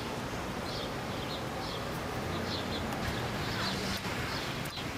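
Outdoor street ambience: a steady low background rumble with a small bird chirping short notes about once a second.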